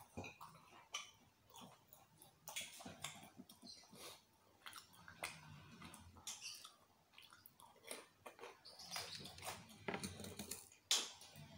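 A person chewing fried cireng (tapioca fritters) close to the microphone: irregular, wet chewing and crackling mouth noises, with one sharper tap near the end.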